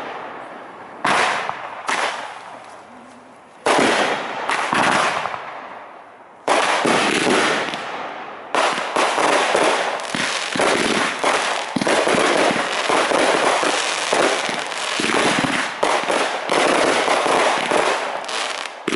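Aerial fireworks shells bursting: a few separate bursts, each dying away, in the first seconds, then from about eight seconds in a dense, nearly continuous barrage of overlapping bursts.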